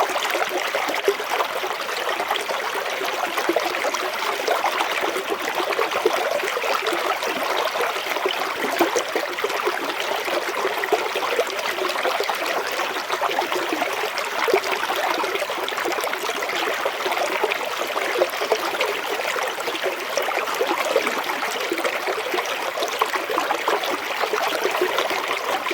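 Water running and splashing steadily over a small waterfall into a clear creek, a continuous babble with many small splashes.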